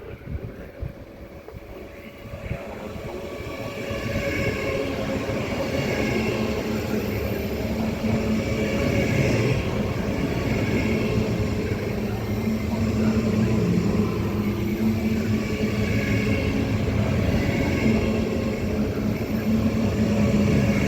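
A train running past close by: its rumble and hum build over the first four seconds and then hold steady and loud, with a faint higher whine on top.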